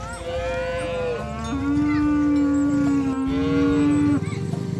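A cow mooing: one long, steady, low moo of about two and a half seconds, starting about a second and a half in.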